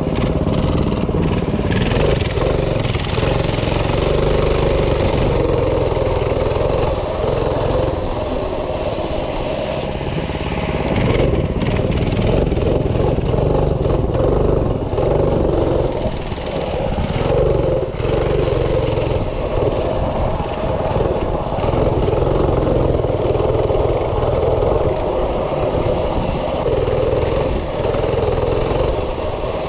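Small minibike engine running continuously, its level rising and falling a little.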